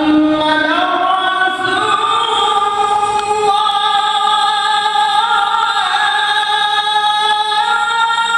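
A man's voice singing the adhan (Islamic call to prayer) in long, drawn-out melismatic notes, the pitch stepping slowly up and down between sustained tones.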